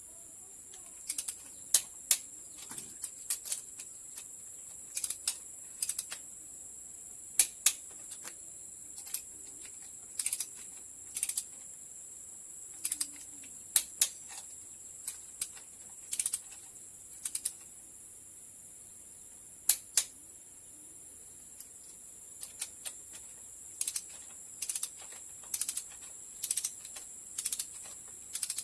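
Irregular sharp metallic clicks and clinks of hand tools on engine parts, singly or in quick twos and threes every second or two, over a steady high-pitched hiss.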